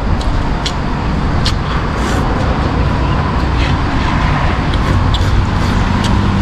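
Road traffic going by: a steady rumble of passing vehicles, with a few short sharp clicks over it.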